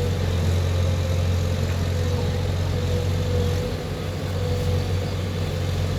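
Heavy diesel engine running steadily at a constant speed: a low, even hum with a thin, steady higher tone above it.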